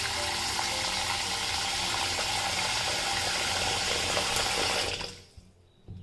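Water running steadily from a tap, cut off about five seconds in.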